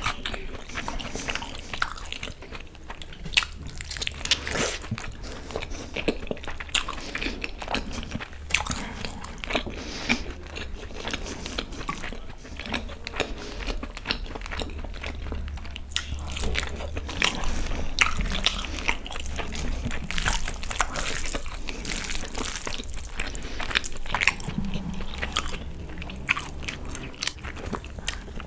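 Close-up chewing and mouth sounds of a person eating big mouthfuls of chicken egg fried rice and chicken Manchurian by hand, with many small clicks throughout.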